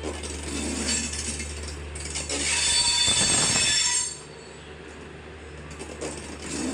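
Passenger train coaches rolling slowly alongside a station platform as the train arrives, with wheel-on-rail clanks and knocks. A louder high-pitched metallic squeal sounds from about two and a half to four seconds in. A steady low hum fades out around the middle.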